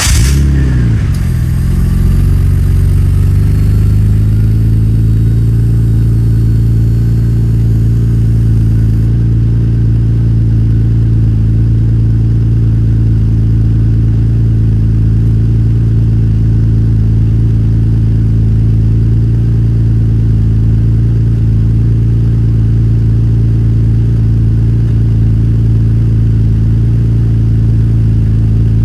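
Nissan Skyline GT-R's RB26DETT twin-turbo straight-six just after a cold start, heard through a Midori Seibi titanium exhaust. The revs flare and fall away in the first couple of seconds, then it settles into a steady cold idle. A faint high whine stops about nine seconds in.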